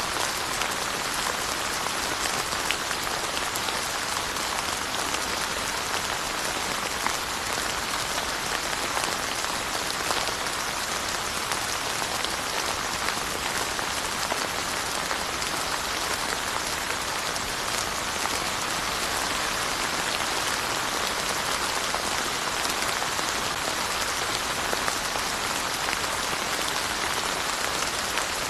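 Steady rain falling on surfaces, an even patter with scattered individual drops ticking through it.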